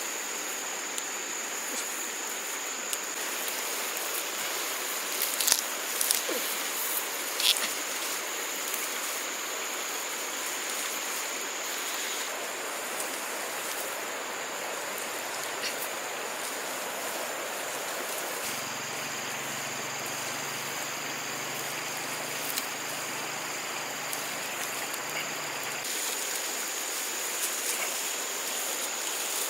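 Steady rush of flowing floodwater, with a constant thin high insect drone over it. A few short knocks come about five to eight seconds in, and a low hum joins for several seconds past the middle.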